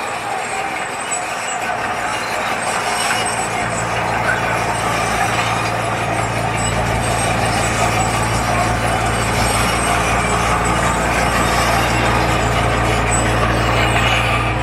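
Heavy construction machine's diesel engine running steadily, its low drone growing stronger about six seconds in.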